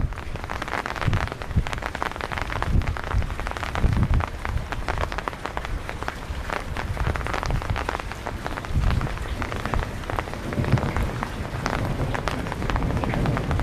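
Heavy rain falling in a thunderstorm, a dense hiss with many close, sharp drop hits. Underneath, a low rumble swells and fades unevenly.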